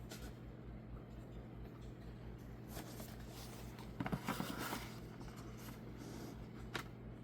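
Hands handling cardboard and paper packaging: a brief scratchy rustle about four seconds in and a few small clicks, over a steady low hum.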